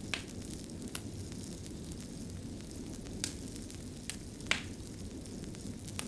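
Fire crackling: a steady low rush with six sharp pops and snaps scattered through it, the loudest about four and a half seconds in.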